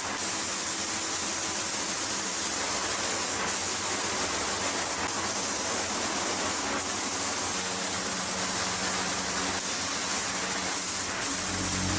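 Paint spraying: a steady hiss with a few brief breaks.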